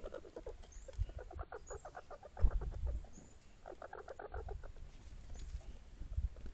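Rapid series of short animal calls, about ten a second, in three bursts, the longest in the middle, with a few soft low thuds among them.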